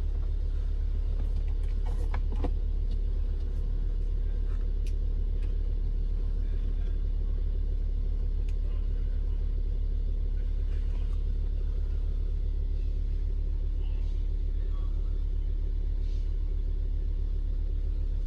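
2015 BMW X5 xDrive35d's 3.0-litre turbocharged diesel straight-six idling steadily, a low rumble at an even pitch. A few faint clicks about two seconds in.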